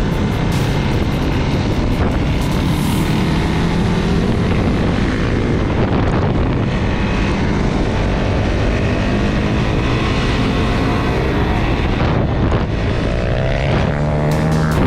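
Off-road vehicle engine running while under way, with wind rushing over the microphone; its pitch climbs near the end as it accelerates.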